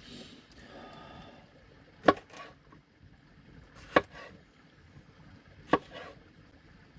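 Three sharp chopping blows, a little under two seconds apart, each followed by a lighter second knock.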